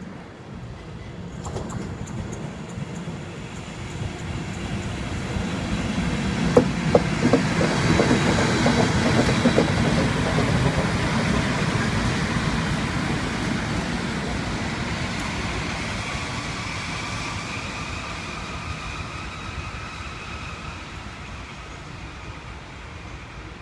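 A train passing through on the tracks. The rumble builds over several seconds, with a run of sharp wheel clicks about six to ten seconds in, then slowly fades away with a faint whine.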